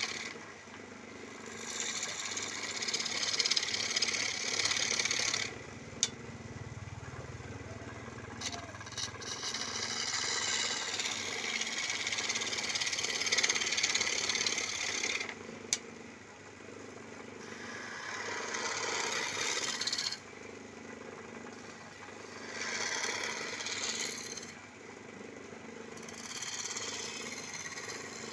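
Wood lathe running with a steady motor hum while a hand turning chisel cuts the spinning wood, a scraping hiss that swells and falls away in passes every few seconds. Two sharp clicks stand out.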